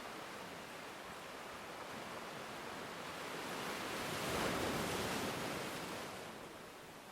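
Ocean waves: a steady wash of surf that swells into one louder wave about four and a half seconds in, then ebbs away.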